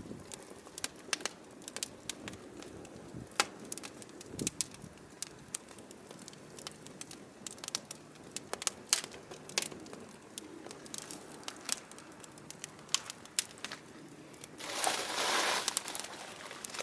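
Firewood burning, crackling with frequent sharp pops and snaps. Near the end a hissing rush lasts about a second.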